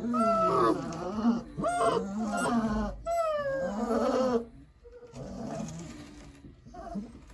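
Six-week-old Boerboel puppy whining and crying: several drawn-out, wavering cries in the first four seconds or so, then a few fainter ones.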